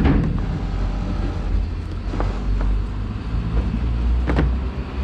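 An engine running steadily with a deep hum, with a few sharp knocks about two seconds apart.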